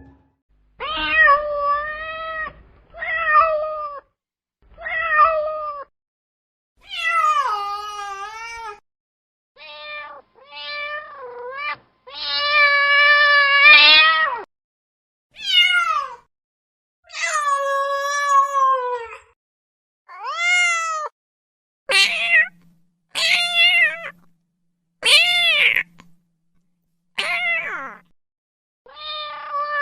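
Domestic cat meowing over and over, about sixteen separate meows with short silences between them: some short, one long drawn-out meow in the middle, and several higher, rising-and-falling calls later on.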